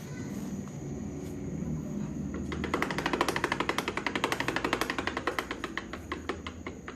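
Scooter engine running with a rapid, even knocking, about nine knocks a second, that comes in loud about two and a half seconds in and thins out near the end: the strange noise the scooter is making.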